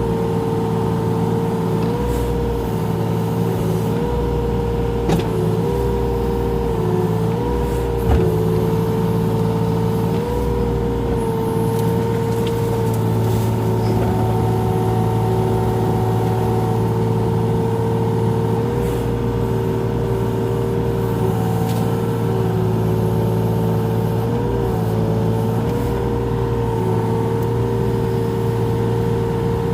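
Mini excavator running steadily under work, its engine note dipping and recovering in pitch several times as the controls are worked, with a sharp click about eight seconds in.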